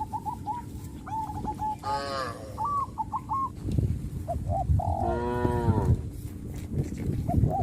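Cattle mooing twice: a short falling moo about two seconds in and a longer one about five seconds in. Short bird chirps repeat throughout.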